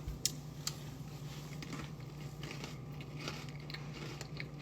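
Crackers being bitten and crunched: two sharp cracks in the first second, then light crackly crunching, over a steady low hum.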